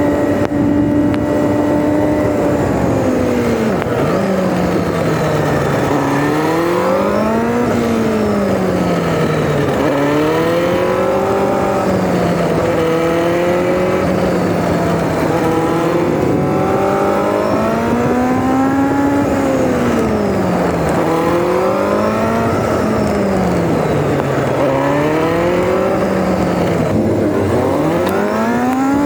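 Kawasaki Z900RS inline-four engine running through an SP Tadao POWERBOX full 4-into-1 titanium exhaust, recorded from the moving bike. The note holds steady for the first few seconds, then rises and falls over and over, every couple of seconds, as the throttle is opened and closed. The recording is sped up to double speed, so the pitch is somewhat higher than it really is.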